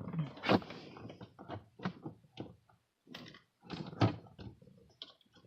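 Handling noise from working on a car's gauge cluster: an irregular series of clicks and knocks, with two sharper knocks about half a second in and about four seconds in.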